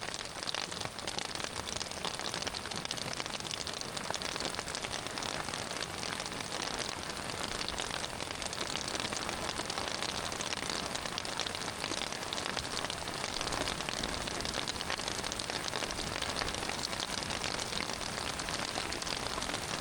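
Heavy rain falling steadily, a dense hiss of countless drop hits at an even level.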